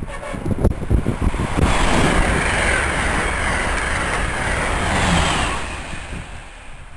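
A train passing at speed: a loud rushing noise of wheels on rail that comes in sharply about a second and a half in, holds for a few seconds and then fades away, with wind buffeting the microphone.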